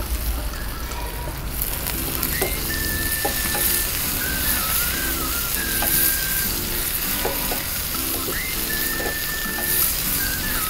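Button mushrooms, onion and sliced tomatoes sizzling in hot oil in a frying pan while being stirred with a spatula. The sizzle gets louder after about a second and a half. Soft instrumental music plays underneath.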